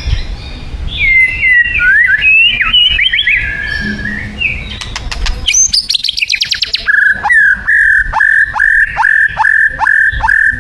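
White-rumped shama singing: a run of varied, gliding whistled phrases, a few sharp clicks, then from about seven seconds in the same short whistle repeated quickly, each note ending in a steep downward slur.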